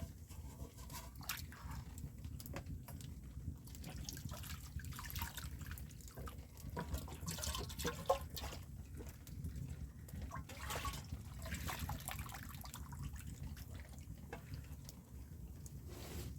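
Water dripping and splashing in small irregular drops, over a steady low rumble.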